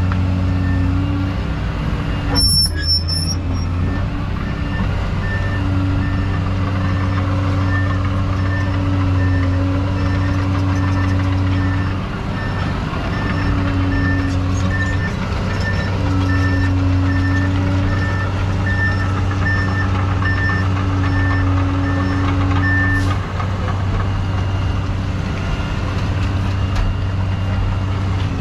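Excavator diesel engine running steadily, with a backup alarm beeping about twice a second from about five seconds in until near the end. A brief sharp clatter comes about two and a half seconds in.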